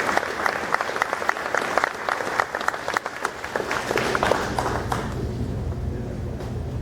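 Audience applauding, the clapping dying away about five seconds in, after which a low steady hum remains.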